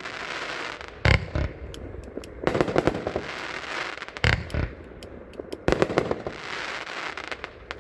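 Consumer fireworks cake (24-shot repeater) firing: sharp bangs every second or two, each followed by a hissing crackle from the breaking effects.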